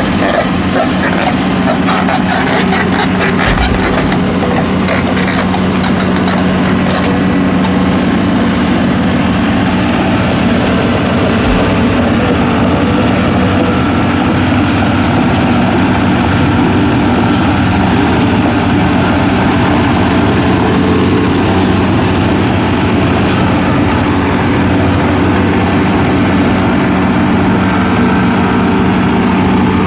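Heavy logging truck's engine running steadily with a constant low hum, with rattling and clicking over the first few seconds.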